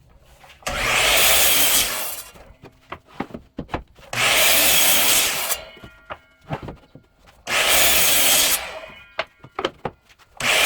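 Power saw crosscutting boards to length against a stop block: three cuts of about a second and a half each, with a fourth starting at the very end. Short knocks and clicks of the boards being set in place come between the cuts.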